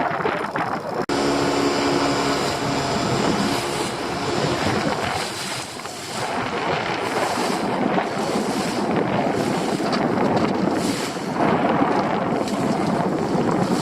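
Wind buffeting the microphone over a small fishing boat's engine and the rush of water. About a second in the engine note rises, and a few steady tones show for a couple of seconds.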